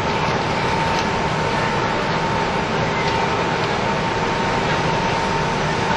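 Cabin sound of a KiHa 75 diesel railcar under way: a steady rumble of engine and wheels on rail, with a thin steady whine and a few faint ticks.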